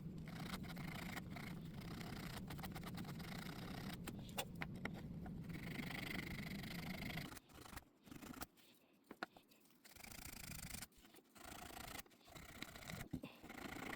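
Light clicks and scraping from small handwork on a model airplane, over a steady low hum that cuts off about halfway through.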